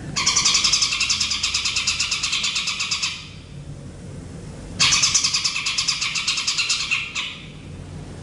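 A bird gives two rapid, buzzy pulsed trills of about three seconds each, the second starting about five seconds in. It is a 'master' song for training a competition songbird.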